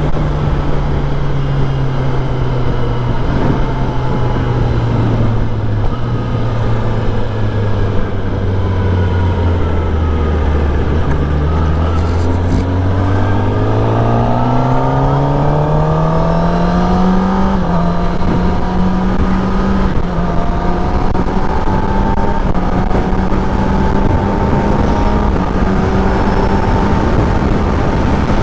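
Kawasaki ZX-10R's inline-four engine running on the road over a steady rush of wind and road noise. The engine note falls slowly through the first third as the bike slows, then climbs steadily as it accelerates, with a short dip partway up, and holds a steady cruise for the rest.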